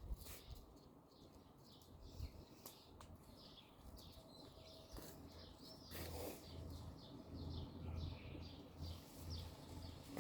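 Several small songbirds chirping and twittering faintly in quick, overlapping calls, with a low rumble underneath.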